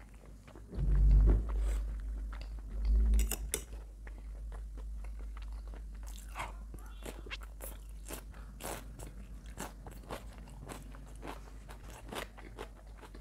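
Close-miked chewing and crunching of food: many short, sharp crunches and wet mouth clicks from biting raw cucumber and salad. There are two louder dull thumps in the first three seconds.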